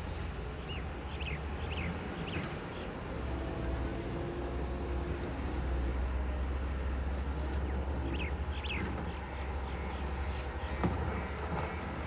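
Heavy diesel machinery engine running steadily with a low rumble, growing slightly louder midway. Birds chirp in short bursts twice, near the start and again later.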